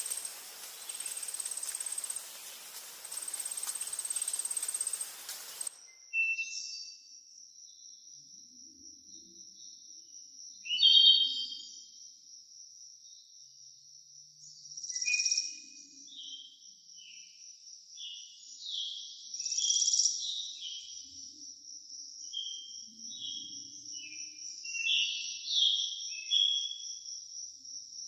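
Forest ambience: a steady hiss under a high, broken insect trill, which cuts off about six seconds in to a steady high-pitched insect buzz with scattered bird chirps and calls over it.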